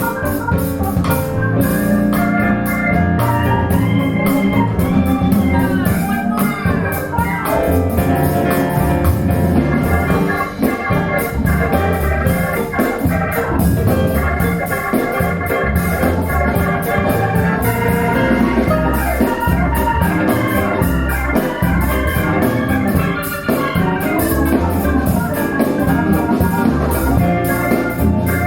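Music played through Wharfedale Linton Heritage loudspeakers: sustained organ-like keyboard chords over a deep bass line, with no vocals.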